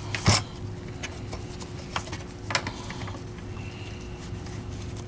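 Hard knocks and clicks of parts being handled as the brush roller is seated in a vacuum power head, the loudest knock just after the start and two more about two seconds in, over a steady low hum.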